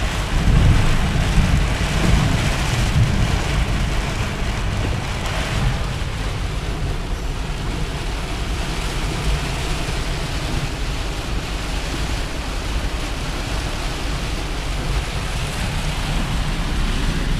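Steady road noise inside the cab of a Freightliner Cascadia semi-truck under way: a low engine drone mixed with tyre and wind noise.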